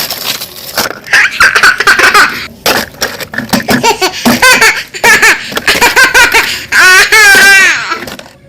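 A young child laughing and giggling in repeated high-pitched bursts, with a longer wavering squeal of laughter near the end.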